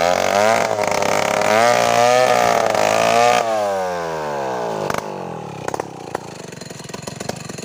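Two-stroke chainsaw running at full throttle, its pitch wavering, then the throttle is let off about three and a half seconds in and the engine winds down to idle.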